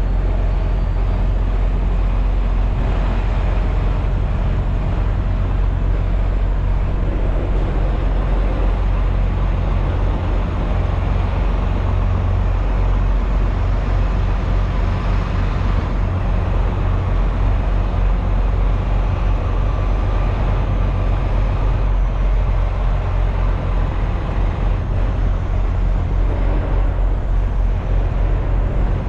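Semi-truck's diesel engine and road noise while driving, a steady low drone with a constant rush of tyre and wind noise.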